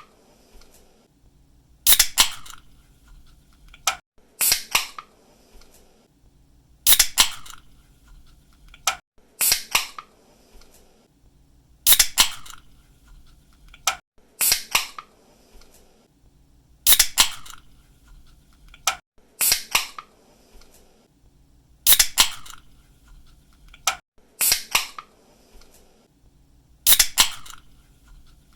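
An aluminium drink can's pull-tab being popped open: a sharp crack and a brief fizzing hiss. It repeats about every two and a half seconds, eleven times.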